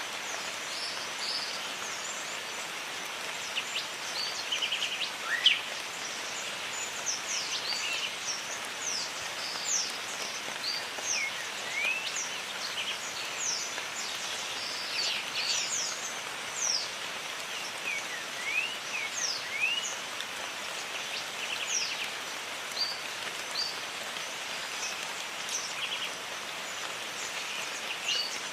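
Steady rain hiss in a jungle with many birds calling over it: short whistled chirps, some sliding up, some falling quickly, and a few rapid trills, scattered throughout.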